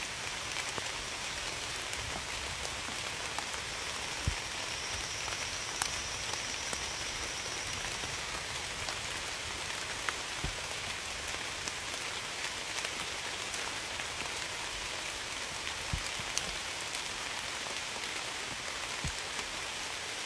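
Steady rain falling on a surface, an even hiss with a few sharper single drips landing now and then.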